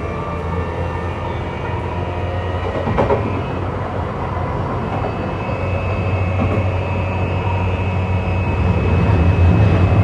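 JR East E235-1000 series electric train running at a fairly steady speed, heard from inside the carriage: a steady rumble with level whine tones over it, a brief clatter about three seconds in, and the noise growing a little louder near the end.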